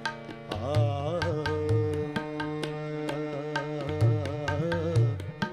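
Devotional kirtan music: a sung or held melodic note, ornamented with bends, carried over a steady tabla rhythm.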